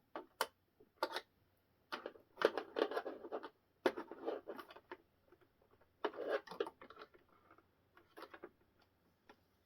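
Handling noise from assembling a model by hand: scratching, rustling and light clicks of small parts and tweezers, in several short irregular bursts.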